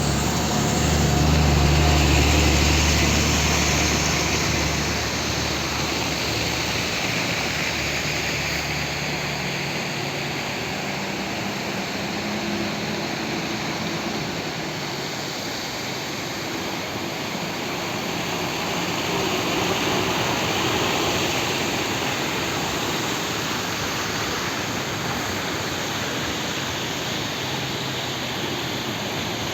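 Water flowing steadily, a continuous rushing noise, with a deeper rumble for the first nine seconds or so.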